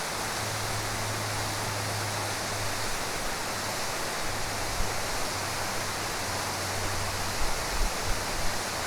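A high waterfall heard from its base: a steady, even rush of falling water. A few short low bumps come near the end.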